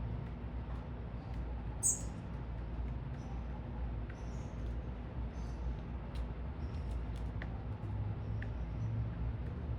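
Small birds at a feeder giving short, high chirps several times, with one louder, sharper chirp about two seconds in, over a steady low rumble of city traffic.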